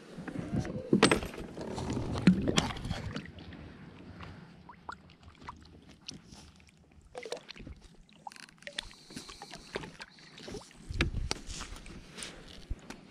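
Knocking and handling noises on a kayak: loud rumbling knocks for the first few seconds and again about eleven seconds in, with scattered light clicks in between.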